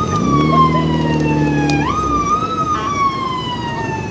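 A siren wailing, its pitch falling slowly and then jumping sharply back up, twice. Under it a car engine revs up and holds for about two seconds before dropping away.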